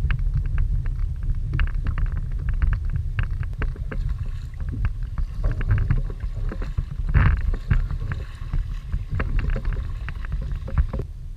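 Strong wind rumbling on the microphone while choppy water slaps against a kayak hull in many quick, irregular splashes.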